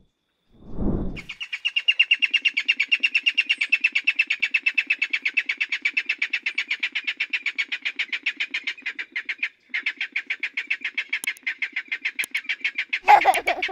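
Okinawa rail calling: a long, fast series of sharp repeated notes, several a second, with a brief pause partway through.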